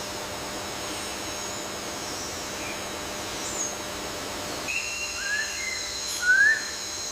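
Forest ambience: a steady hiss with thin, steady high-pitched tones, joined from about five seconds in by a few short whistled bird calls, the loudest a quick upward-sliding whistle near the end.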